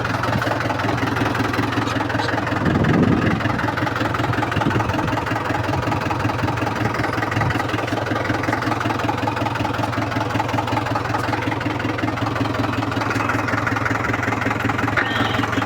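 Mahindra 275 DI tractor's three-cylinder diesel engine running steadily, with a brief louder surge about three seconds in.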